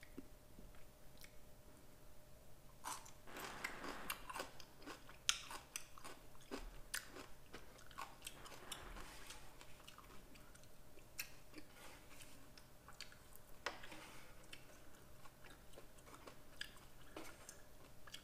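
Close-miked chewing and biting of instant curry ramen noodles and young-radish kimchi: faint, wet mouth sounds made of many short clicks.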